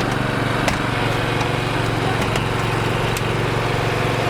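A vehicle engine idling steadily, with a few sharp clicks over it.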